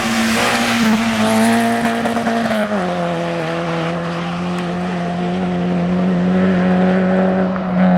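Rally car engine at high revs going past, its pitch dropping once about three seconds in and then holding steady, with tyre noise in the first few seconds.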